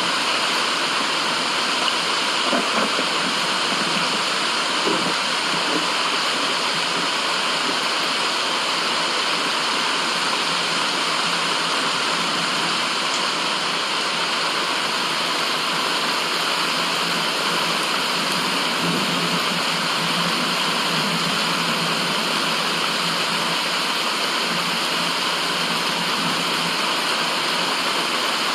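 Steady, even rush of flowing water, unbroken and unchanging.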